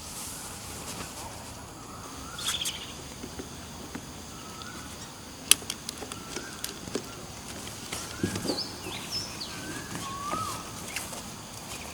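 Outdoor ambience of birds chirping in short scattered calls over a faint steady high drone. A few sharp clicks and knocks from handling gear come through, the loudest about five and a half seconds in.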